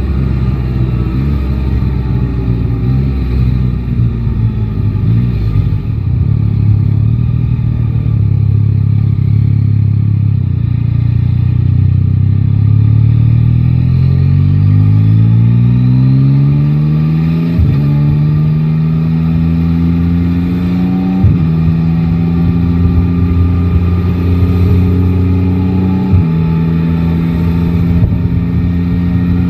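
Yamaha Tracer 9 GT's three-cylinder engine slowing, then pulling away and climbing through the gears, with three upshifts that each drop the pitch before it rises again.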